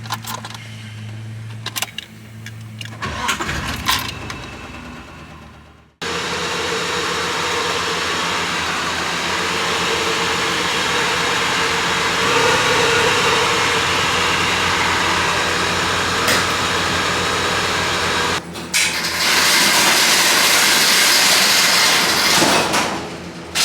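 1988 Nissan Pathfinder's engine starting and then running steadily, heard in a few clips cut together, with sharp changes about six seconds in and again near the end.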